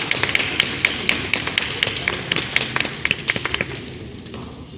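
Rapid, irregular sharp taps, several a second, over a steady background hubbub; the taps stop shortly before the end.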